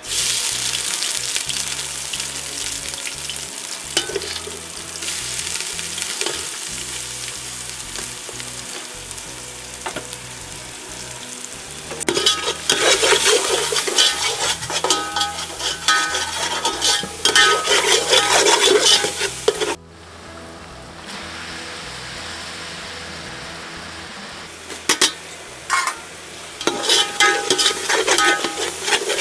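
Chopped vegetables sizzling as they hit hot oil in a large aluminium cooking pot, with a steady frying hiss. A long metal ladle stirs and scrapes against the pot in repeated strokes, louder in the second half.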